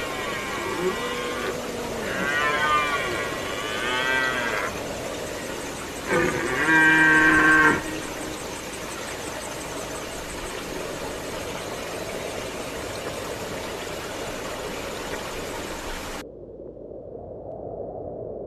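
Three long, low, cow-like lowing calls from a large hoofed animal, each lasting one to two and a half seconds, the third the loudest. After them a steady hiss carries on, dropping in level near the end.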